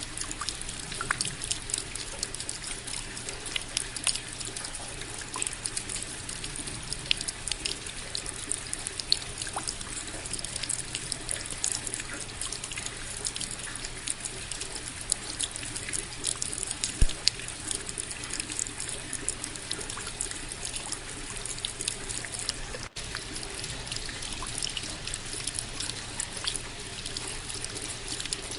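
Steady rain, with many sharp individual drops striking close by over a continuous trickle of running water.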